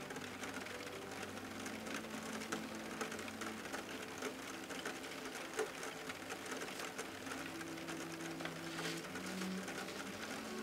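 Rapid, irregular mechanical clicking and rattling, like a machine running, over a few low held tones that shift in pitch now and then.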